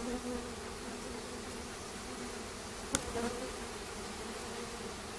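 Honey bees buzzing around an opened hive: a steady, even hum. A single sharp click about three seconds in.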